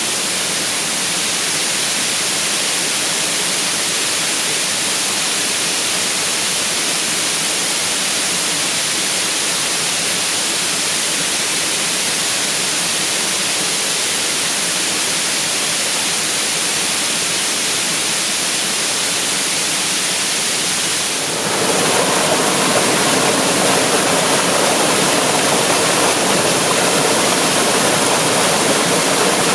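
Waterfall pouring out of a cave, a steady rushing of falling water. About three quarters of the way through, it suddenly gets louder and fuller.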